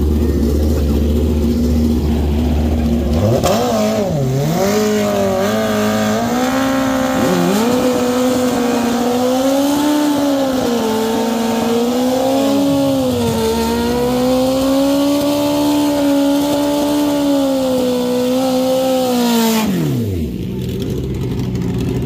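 Drag-racing sport-bike engines idling, then revved hard about three seconds in and held at high revs, wavering, for some sixteen seconds while the rear tyres spin in a burnout. The revs drop back to idle near the end.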